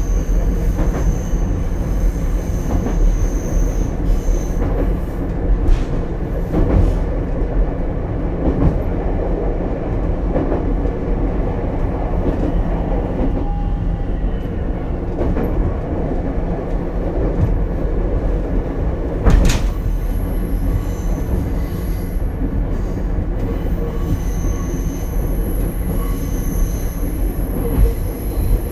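Onboard running sound of Ichibata Electric Railway 7000-series railcar 7001 under way: a steady rumble of wheels on rail with the car's running hum. One sharp knock comes about two-thirds of the way through.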